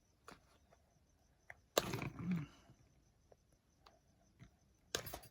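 Quiet handling of craft materials: scattered light clicks, a louder rustling, breathy burst about two seconds in, and another short burst near the end.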